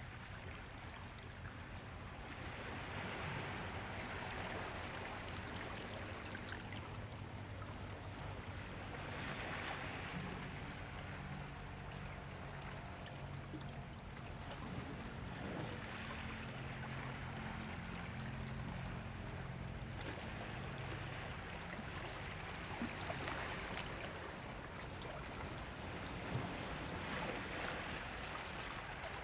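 Ocean waves washing in and drawing back, a steady rush that swells every few seconds.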